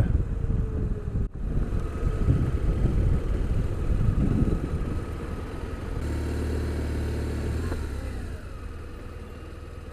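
BMW R1200RT motorcycle's flat-twin engine running as the bike rides along with wind and road noise. Past the middle the engine holds a steadier note for a couple of seconds, then the sound drops quieter as the bike slows.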